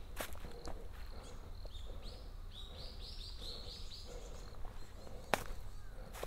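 A small bird calls a quick run of about eight high, chirping notes in the middle, over footsteps on a dirt and leaf-litter forest trail, with a sharp step near the end.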